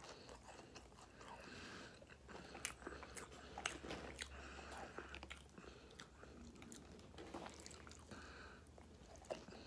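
Faint close-up biting and chewing of a breaded mozzarella stick, with a few sharper clicks scattered through it.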